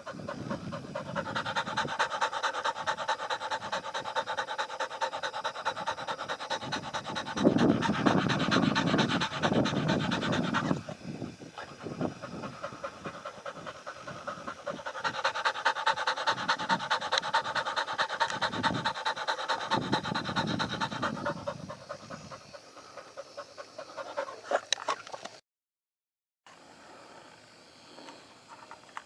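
An animal breathing fast and rhythmically in quick repeated pulses, in two long stretches, with a louder, deeper stretch about eight to ten seconds in. The sound cuts out for a moment near the end.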